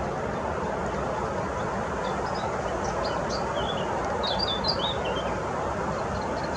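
Small songbirds chirping and twittering in short, high notes, busiest about the middle, over a steady rushing background noise.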